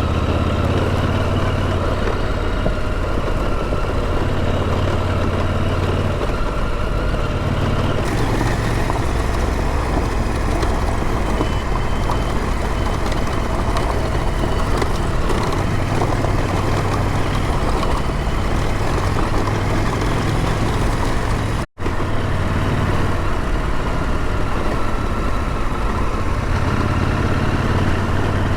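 Motorcycle engine running at a steady pace under wind and road noise, its low hum shifting in strength a couple of times. The sound drops out for a split second a little after two-thirds of the way through.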